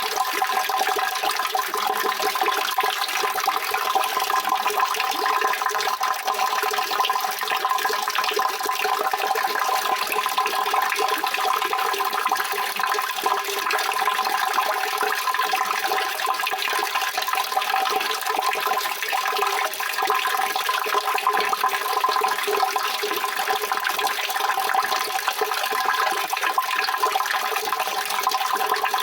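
Steady rushing of running water, an even continuous wash with no breaks.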